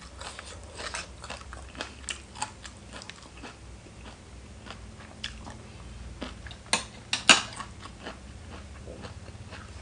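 A person chewing and biting crunchy food close to the microphone, with many short crunches and a louder cluster of crunches about seven seconds in.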